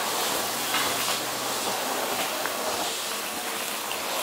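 Keihan 600-series train pulling out and passing close by: a steady hiss of steel wheels running on the rails, with a few faint knocks.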